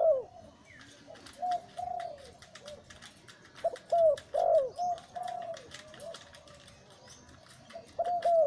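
Male zebra dove cooing: phrases of short, quick notes with a burring, rolling sound, repeated three times a few seconds apart.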